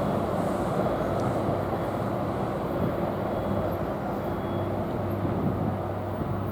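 NJ Transit electric commuter train running past: a steady rumble of wheels and motors with a low hum, slowly fading as it moves away.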